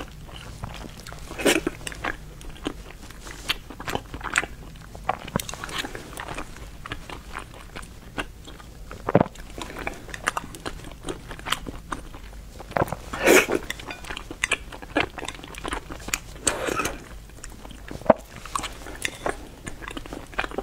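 A person chewing and eating close to the microphone: irregular wet mouth sounds and small clicks, with a few louder bites.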